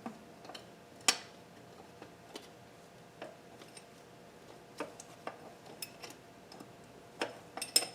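Scattered metallic clicks and clinks of hand tools working on an engine's intake manifold, with a sharper click about a second in and a quick cluster of clinks near the end.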